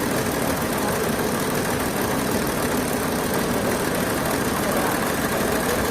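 Sawmill machinery running steadily with an even, engine-like drone.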